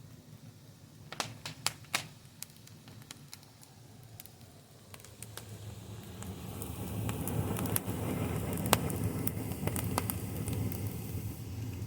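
Wood fire crackling with sharp pops, several close together early on. From about six seconds in, a louder rushing sound builds under the crackles and eases off near the end.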